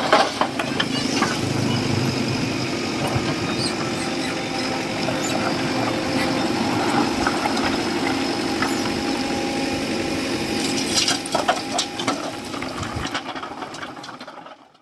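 A diesel engine running steadily, with a few sharp clanks about eleven seconds in, fading out near the end.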